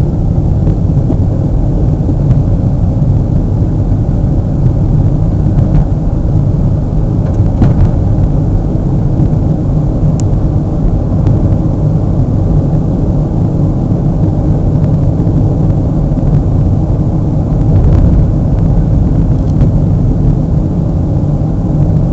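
Steady low rumble of a car driving, road and wind noise heard from inside the moving vehicle, with a few faint clicks.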